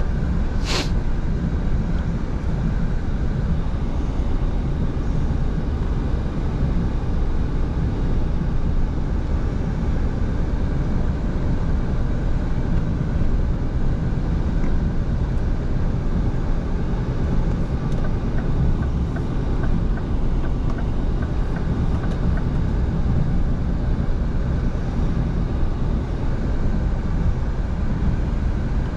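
Scania V8 diesel truck on the move: a steady low engine rumble mixed with road noise. A single brief sharp click comes about a second in.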